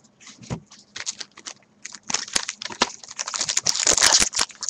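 Baseball cards and their pack wrappers being handled: a quick run of small clicks, rustles and crinkles that grows busier and louder about two seconds in.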